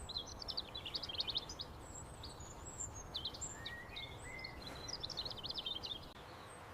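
Small birds chirping and trilling over a steady outdoor background noise.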